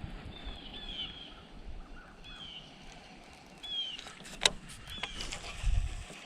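A bird calling over and over, short high chirps that slide downward, over a low outdoor rumble; a sharp click sounds a little past the middle.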